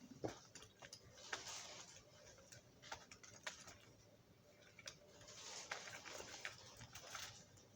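Faint, scattered clicks and taps with a few short scraping sounds, from small tools and metal parts being handled and worked by hand.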